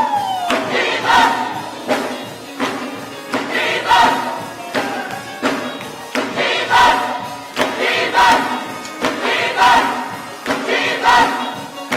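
Gospel music with a choir or congregation singing over a strong beat that lands about every second and a half. A voice slides down in pitch right at the start.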